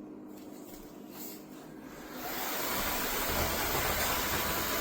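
Narwal S30 wet-dry vacuum mop's suction motor starting up about two seconds in, quickly reaching a loud, steady run.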